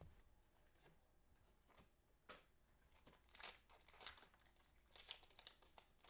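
Faint crinkling and tearing of a cellophane-wrapped trading card pack being opened, in short crackly bursts, loudest a few seconds in.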